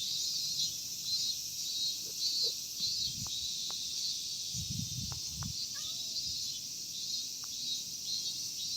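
Summer cicadas buzzing in a steady, pulsing chorus, with a few soft low thumps partway through.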